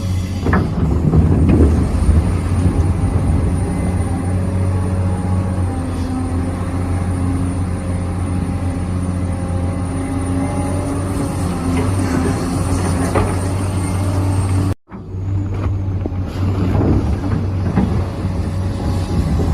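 A radio-controlled construction model's electric motor running steadily, a hum with a thin high whine, with a few short knocks as the model works. The sound cuts out for a moment about fifteen seconds in.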